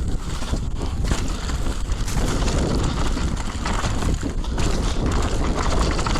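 Wind buffeting the microphone of a camera on a mountain bike riding fast downhill, over tyres rolling on rough ground and the bike rattling with many small knocks.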